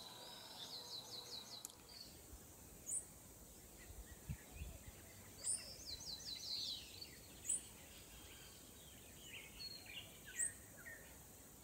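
Faint birdsong: short high chirps every couple of seconds, and two quick trills of repeated notes, one near the start and one about halfway.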